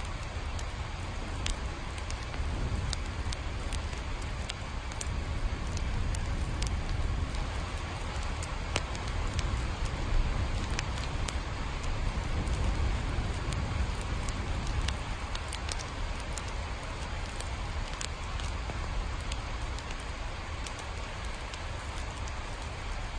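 Steady rain ambience: an even hiss of rainfall over a low rumble, with scattered sharp ticks of individual drops.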